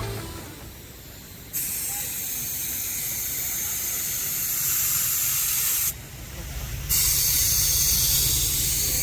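A steady hissing noise that starts abruptly about a second and a half in, cuts out suddenly for about a second near the middle and comes back, over a faint low rumble.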